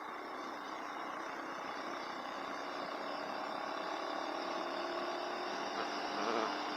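KTM 390 Adventure motorcycle under way, its engine note rising slowly as it accelerates over steady road and traffic noise.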